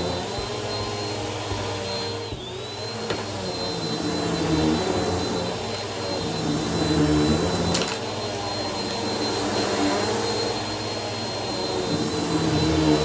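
Bissell vacuum cleaner running on a shag rug. A steady high motor whine dips briefly about two seconds in, and a lower drone swells and fades every few seconds with the passes over the pile.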